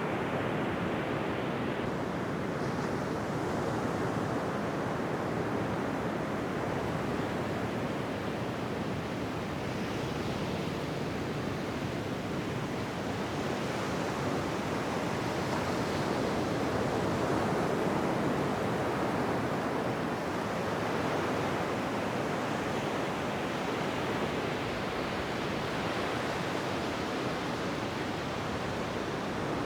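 Ocean surf washing on a beach: a continuous rush of wave noise that swells a little every few seconds, with no distinct single breaks.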